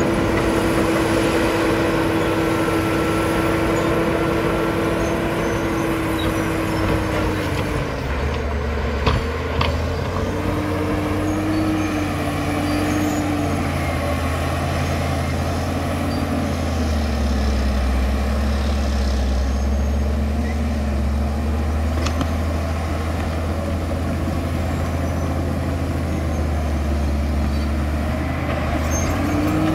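Caterpillar D7 bulldozer's diesel engine running, steady and high for the first several seconds, then dropping to a deeper, lower pitch for most of the time before climbing back up near the end. A single sharp knock sounds about nine seconds in.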